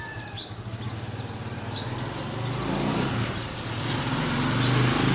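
Short, high chirps of Japanese white-eyes over the low hum of a passing vehicle engine, which grows louder toward the end.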